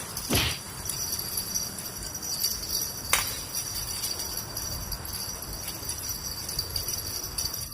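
Small bell jingling steadily with fast, uneven shaking, like a bite bell on a fishing rod tip being shaken by a fish, with two sharp knocks, one near the start and one about three seconds in.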